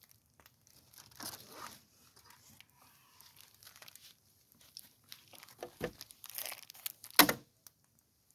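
Scattered rustling, crinkling and tearing from something being handled, with a sharp knock about seven seconds in.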